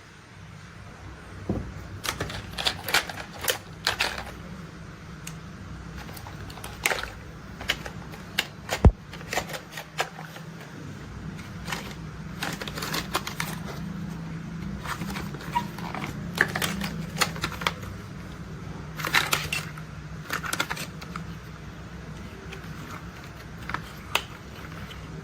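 Plastic toy construction vehicles being handled, giving irregular clusters of sharp clicks and clatters over a low steady hum.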